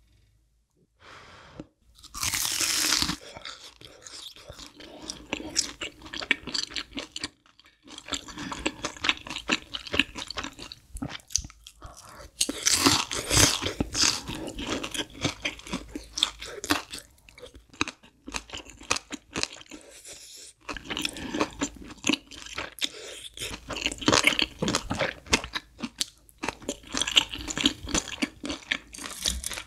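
Close-miked crunchy bites and chewing of a deep-fried breaded cheese pork cutlet, its crisp crust crackling with each bite. There is a loud bite about two seconds in, then steady crunching chews with further loud bursts later on.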